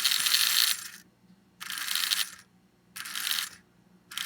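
Marx toy steam locomotive's electric motor and gears whirring in four short bursts about a second apart as power is switched on and off, with the engine held off the track.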